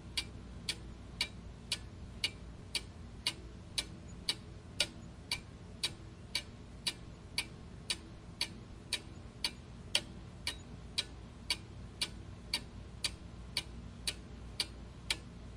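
Clock ticking steadily at about two ticks a second, with a faint low hum underneath.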